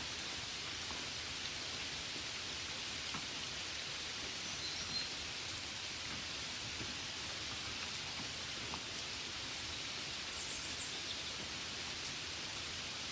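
Steady gentle rain, an even hiss with scattered faint drop taps, the sound of rain falling on a window. Two brief faint high chirps come through, about five seconds in and near ten seconds.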